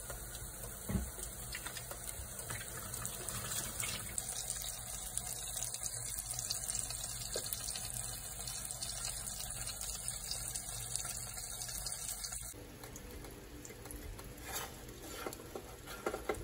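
Breaded chicken pieces shallow-frying in oil in a nonstick pan: a steady sizzle with fine crackling. About twelve seconds in it turns quieter, and a few light clicks follow near the end as a spatula turns the pieces.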